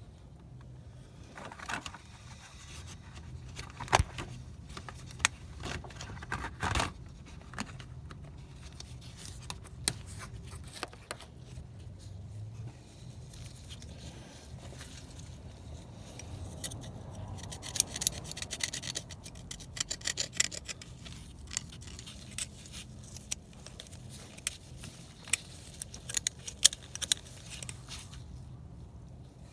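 Hand tool scraping and picking hardened carbon build-up off the intake valves in the engine's ports: irregular metallic scratches and clicks, with a busier run of rapid scraping about two-thirds of the way through. A steady low hum sits underneath.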